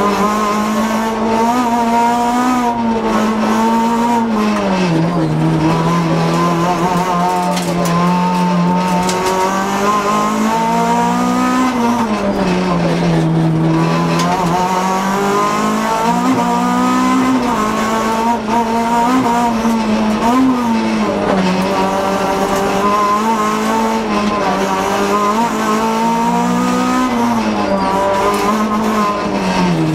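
Honda Civic F2.13 rally car's four-cylinder engine, heard from inside the cabin, driven hard at stage pace. The revs climb and fall repeatedly with gear changes and lifts for bends, with deeper drops about five and thirteen seconds in.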